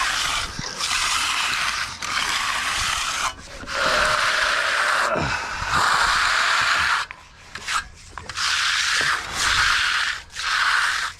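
A hand finishing tool scraping across fresh concrete in long repeated strokes, each lasting one to three seconds with short breaks between them. The concrete is setting fast.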